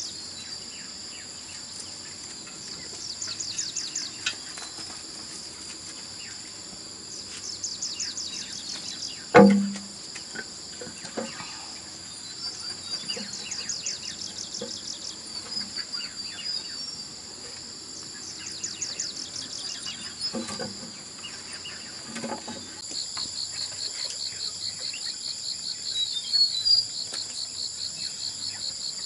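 Insects calling: a steady high whine with repeated short trains of rapid chirps, which turn into a continuous pulsing trill in the last few seconds. One loud thump about nine seconds in, and a few fainter knocks scattered through.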